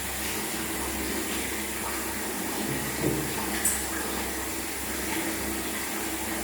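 Steady rush of running water, with a small knock about three seconds in.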